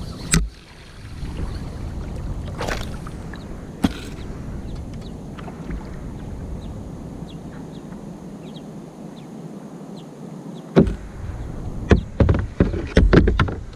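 Knocks and clicks from handling in a kayak over a steady low rumble of wind on the microphone, with a quick run of knocks near the end.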